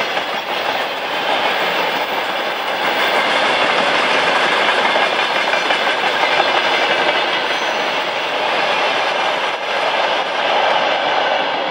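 A train's wagons rolling past, their wheels clattering on the rails in a steady, loud rush of noise.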